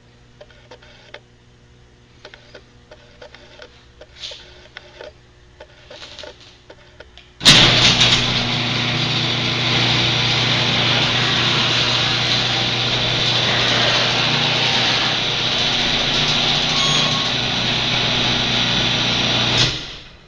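Automatic garage door opener running: after some faint clicks, its motor starts suddenly and runs steadily for about twelve seconds as it drives the door through its travel, then stops.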